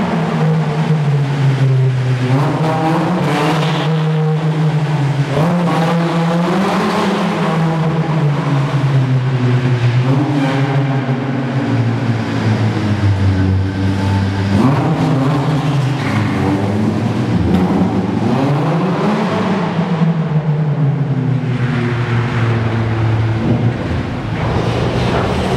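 Citroën Saxo 1.6 8V four-cylinder engine running through its exhaust system, revved up and down again and again, the pitch rising and falling every few seconds without a break.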